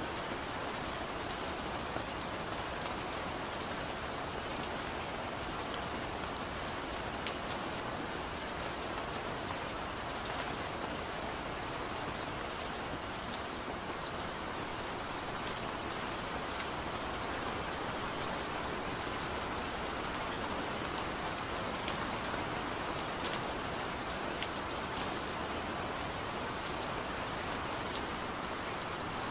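Steady rain falling: an even hiss with scattered sharp drop ticks through it.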